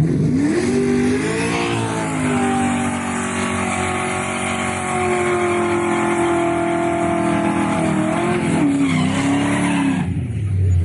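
A car engine revving: the pitch climbs quickly, holds high and steady, then drops and wobbles before cutting off. A low rumble follows near the end.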